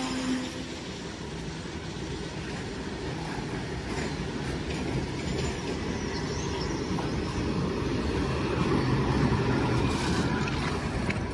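Open-top steel freight wagons of a goods train rolling past close by: a steady rumble of wheels on rail with a few faint clicks, growing louder from about two seconds in and loudest near the end as the guard's brake van passes.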